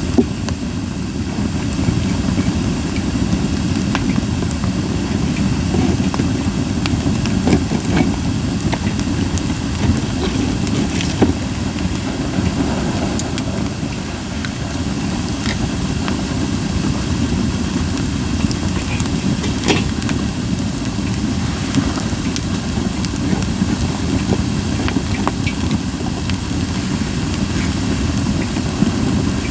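Wood fire of Japanese white pine crackling, with scattered sharp pops over a steady low rumble.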